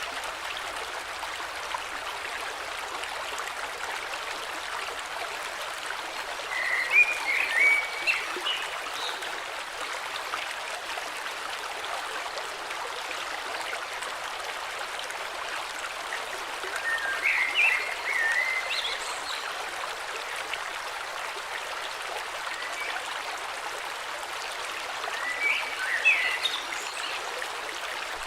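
Flowing river running steadily, with a songbird singing a short warbled phrase three times, about every nine or ten seconds.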